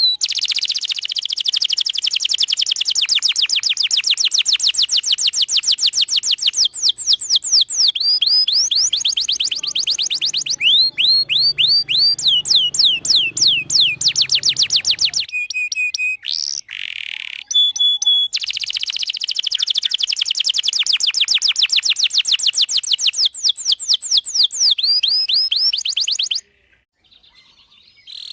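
Domestic canary singing long rolls of rapid, evenly repeated sweeping notes, about ten a second, changing from one trill to the next. There is a short break with a few different notes past the middle, and the song stops near the end.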